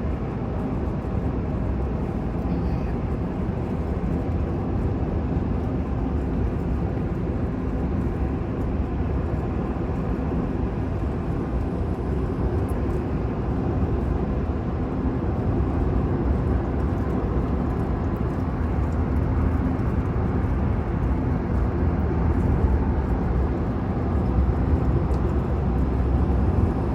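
Steady low rumble of a running vehicle, with a faint even engine hum.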